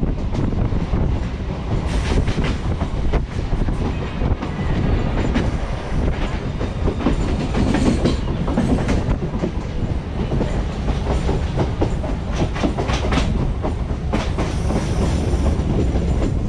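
Electric multiple-unit suburban train running at speed, heard from an open doorway: a steady rumble of the wheels on the track, with several runs of clickety-clack as the wheels cross rail joints.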